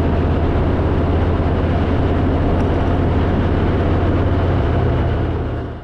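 Harley-Davidson motorcycle's V-twin engine running steadily at cruising speed, with wind rush over it; the sound fades out just before the end.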